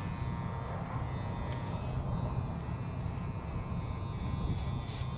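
Electric hair clippers buzzing steadily while shaving a man's head.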